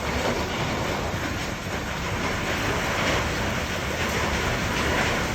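Hailstones pelting down in a dense, continuous clatter.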